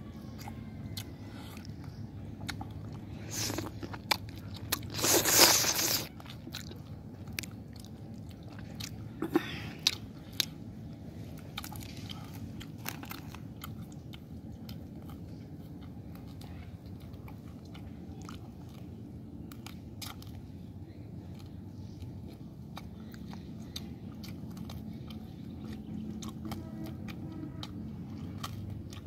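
A person biting and chewing fried duck, with scattered crunchy bites; the loudest crunch comes about five seconds in and a couple more come around ten seconds in.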